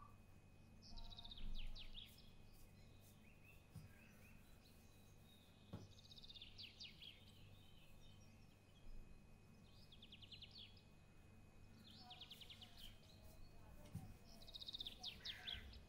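Faint bird song: short, fast trills that come every few seconds, over a low steady hum, with one soft tap about six seconds in.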